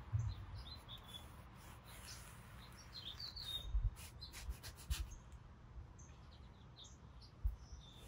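Birds chirping faintly in the background, a scattering of short high chirps, with a few soft low thumps and the faint rub of a towel wiping across a metal garage door.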